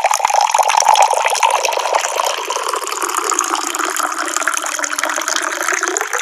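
Tap water pouring and splashing in a steady stream.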